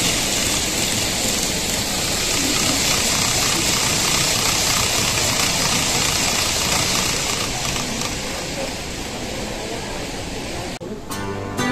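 Steady whirring and rolling of an N-gauge model Shinkansen train running over the layout's track. It cuts off suddenly near the end and gentle guitar music starts.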